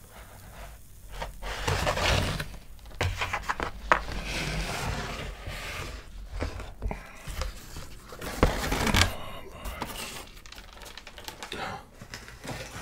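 Close-miked chewing and mouth sounds of someone eating pizza, irregular and wet, with sharp clicks and brief tearing and crinkling noises. The loudest bursts come about two seconds in and again near nine seconds.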